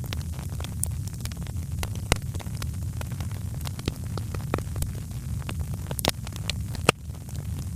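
Wood fire crackling in a fireplace: frequent sharp pops and snaps over a steady low rumble, with a couple of louder pops near the end.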